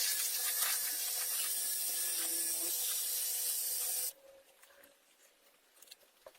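Steady spraying hiss of something released under pressure, running about four seconds and then cutting off suddenly.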